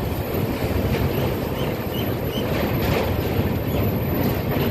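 Passenger train running across a steel truss bridge: a loud, steady rumble of wheels on rails heard from outside the coach, with a few faint knocks.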